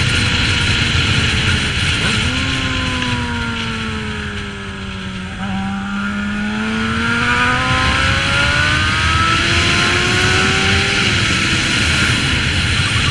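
Motorcycle engine slowing, its pitch falling for a few seconds, then accelerating with a steadily rising pitch, under loud wind rush.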